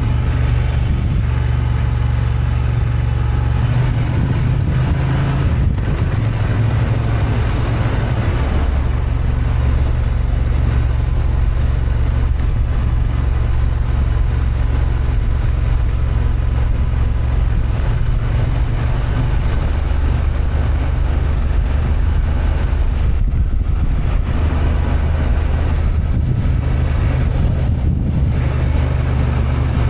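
Honda XL750 Transalp's 755 cc parallel-twin engine running steadily under way, with wind rushing over the microphone.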